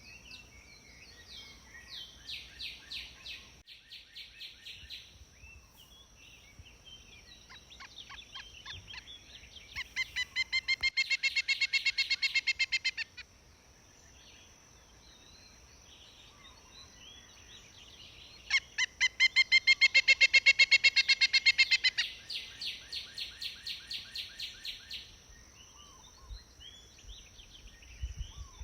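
Pileated woodpecker calls: fast runs of loud, evenly repeated notes, the two loudest runs lasting about three seconds each, with fainter, shorter runs between them.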